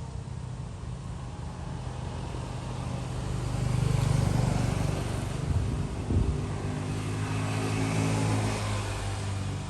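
Street traffic: motor vehicle engines running as they pass, swelling louder about four seconds in and again near the end.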